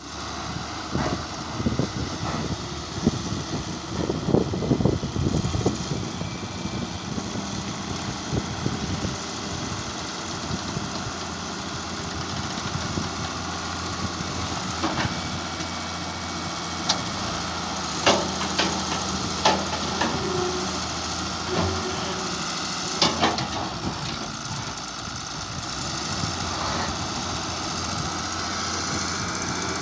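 Engines of heavy earthmoving machinery running steadily, with a series of sharp knocks, several close together about four to five seconds in and single ones spread through the middle.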